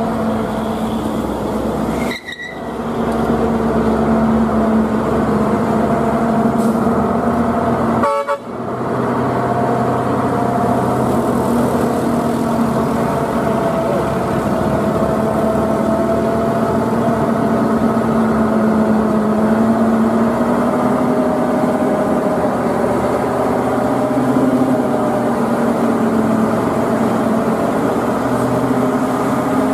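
Heavy truck engine running steadily under load, with a short horn toot near the start. The sound dips out briefly twice.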